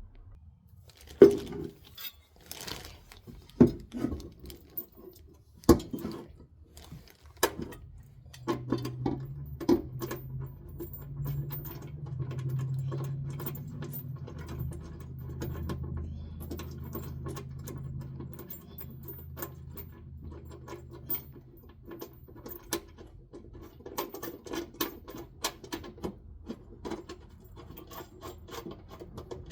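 Small metal hardware clicking and clinking as bolts are fitted with lock washers and flat washers by hand, with a few sharper knocks in the first several seconds. A low hum rises in for about ten seconds in the middle.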